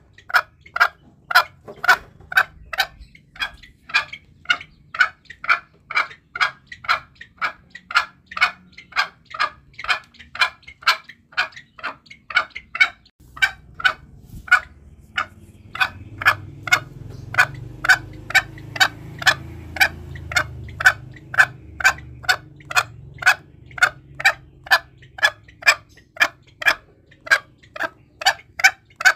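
Green junglefowl call recording: a steady, even run of short sharp clucking notes, nearly three a second, used as a hunting lure.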